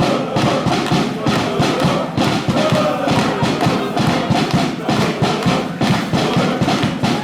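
Football supporters' group chanting together in song, over a drum beaten in a steady rhythm.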